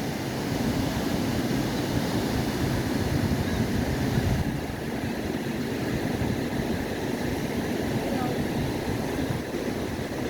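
Hay baler and the tractor driving it running steadily, a continuous low rumble with wind noise on the microphone.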